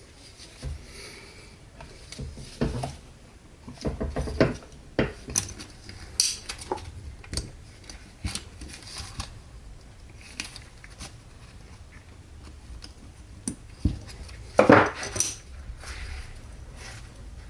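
Metal transmission parts and tools clinking and knocking as they are handled during an Aisin AW55-50 automatic transmission rebuild. The knocks come at irregular intervals, with the loudest clatter about three-quarters of the way through.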